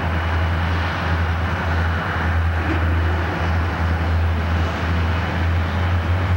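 Santa Fe diesel freight locomotives working hard under load, black exhaust pouring from their stacks, with a steady low rumble, together with the rolling noise of an intermodal train's trailer-laden flatcars and autorack passing.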